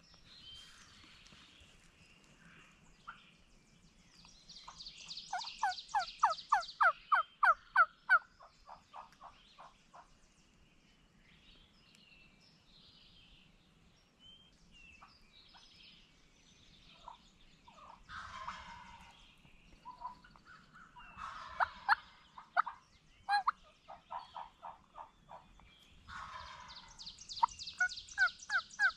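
Wild turkey gobbling several times, mixed with runs of quick, evenly spaced turkey yelps.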